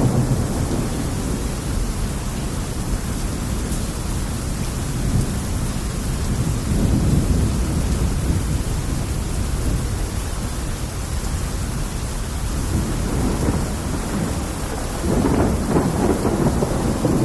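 Steady heavy rain, with a low rumble under it that swells twice: about seven seconds in, and again near the end.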